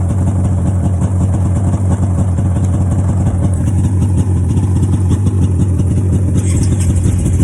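Cold off-road vehicle engine idling steadily after a cold start.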